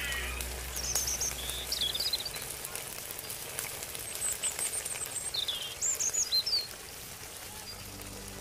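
Sliced peppers and onions sizzling in a hot wok, a steady hiss, with birds chirping in short high calls, loudest about six seconds in.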